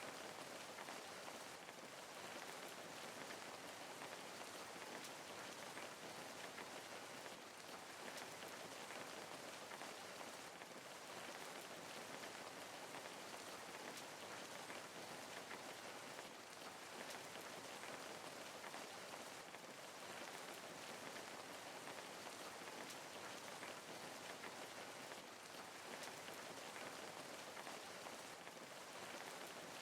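Steady rain falling, an even hiss of many small drops with no thunder or other events.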